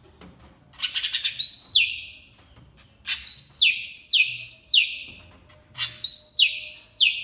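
Small green songbird (the 'ijo mini' of Indonesian bird-keepers) singing loudly in three phrases. Each phrase opens with a quick rattle of ticks, then repeats high whistled notes that fall sharply in pitch.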